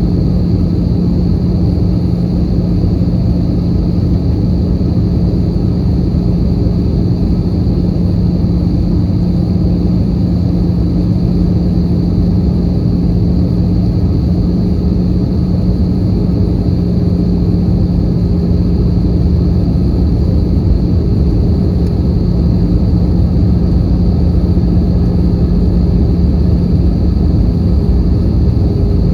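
Airbus A320 in flight, heard inside the passenger cabin: a steady drone of engine and airflow noise with a constant low hum, unchanging throughout.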